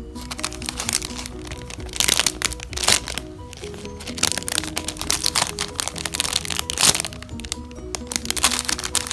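Crackling and crinkling as a foam squishy toy is handled and squeezed, in irregular clusters that are loudest about two, five and seven seconds in, over background music.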